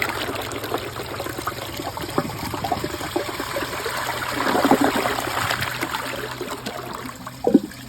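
2005 Crane Athens toilet flushing: water rushes from the full tank down through the bowl, swelling about halfway through and then easing off. A short knock sounds near the end.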